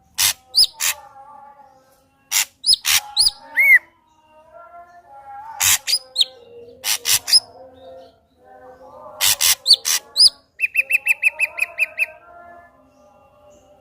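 Ashy drongo singing: short phrases of sharp, harsh notes and arching whistles, separated by brief pauses, with a rapid run of about a dozen even notes late on.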